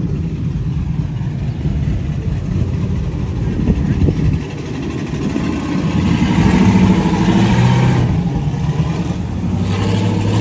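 Loud truck engine running on the street, its rumble swelling louder about six seconds in.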